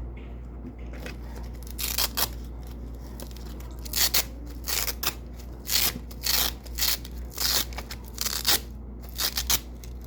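Double-sided hook-and-loop (Velcro) tape being peeled from white hook tape: a string of short, crisp ripping crackles, about one a second, starting about two seconds in.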